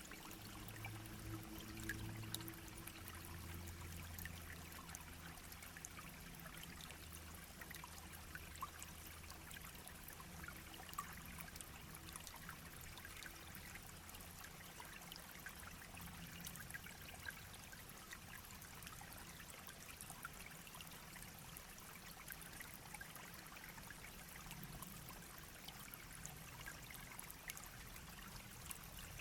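A small shallow brook babbling and trickling steadily, with scattered small splashes and drips. A faint low hum sits underneath for the first several seconds.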